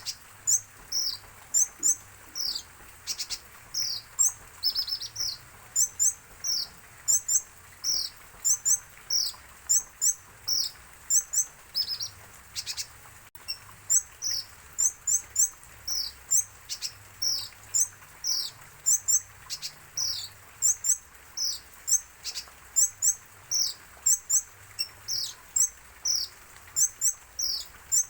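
Olive-backed sunbird (kolibri ninja) calling over and over: short high chirps that drop in pitch, about two a second, with quick doubled notes higher up.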